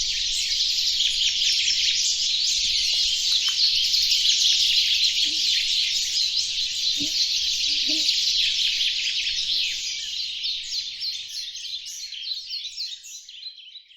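Dense wash of birdsong, many copies of a recording layered on top of one another so the chirps merge into a continuous high twittering. It thins out and fades away over the last few seconds.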